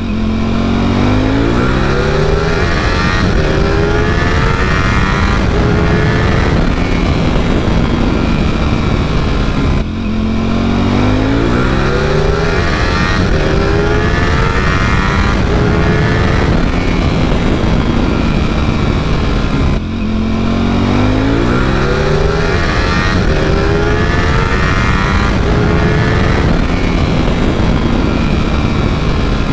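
V4 superbike engine accelerating hard through the gears, its pitch climbing and stepping with each quick upshift, with wind noise. The same pull of about ten seconds is heard three times over.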